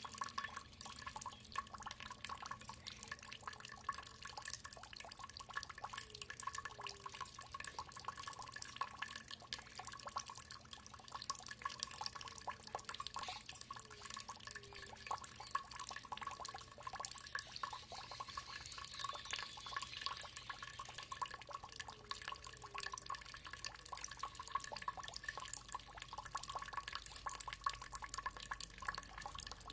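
Water trickling and dripping in many small, irregular splashes, with two faint steady high tones held underneath.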